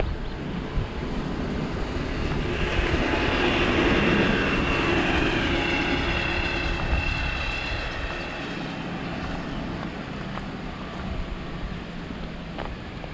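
Train running on rails: a rumble that builds and then eases off, with a thin high metallic squeal from the wheels in the middle.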